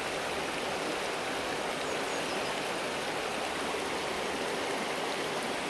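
A small Scottish burn, the Shaggie, flowing steadily: an even, unbroken rush of running water.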